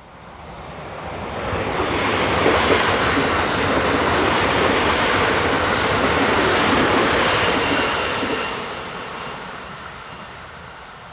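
White limited express electric multiple unit passing close by: its running noise swells over about two seconds, stays loud for about six, then fades as the train draws away.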